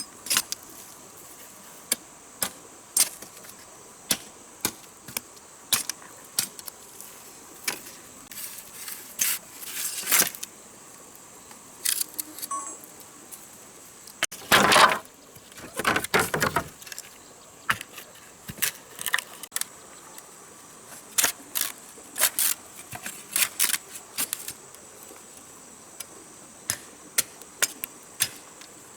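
Irregular sharp clicks and knocks, about one or two a second, with two longer scraping or rustling sounds about halfway through, over a steady high insect drone.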